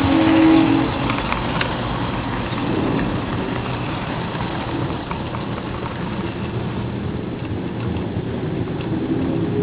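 HO-scale model train rolling along its track, heard from a camera riding on the train: a steady rattling rumble of small wheels on the rails with scattered faint clicks.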